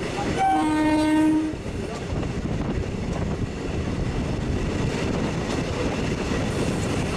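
Running noise of an Indian suburban EMU train, heard from its open doorway, as an oncoming EMU passes close on the adjacent track. A train horn sounds once for about a second near the start.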